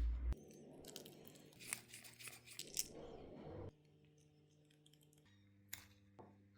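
Crackling, rustling handling noise with small sharp clicks, like small parts being worked by hand. It stops suddenly after about three and a half seconds, leaving faint background music and one more click near the end.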